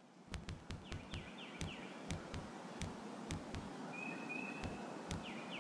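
Faint nature ambience: a few short falling bird chirps and one held whistled note about four seconds in, over a soft hiss. Through it run a dozen or so sharp, irregular clicks, each with a soft low knock.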